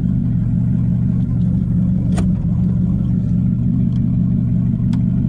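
Turbocharged V8 of a Chevy Silverado idling steadily, with two sharp clicks about two seconds in and near the end.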